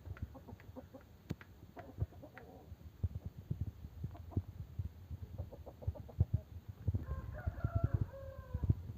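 Aseel chickens clucking, then a rooster crowing once, a call of about a second and a half starting about seven seconds in. Frequent short, low thumps and knocks run underneath.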